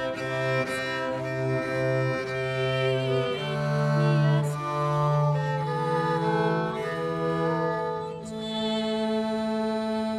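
Small acoustic early-music ensemble playing Italian Renaissance music, with sustained low bowed notes under moving melodic lines, settling about 8 seconds in on a long held final chord.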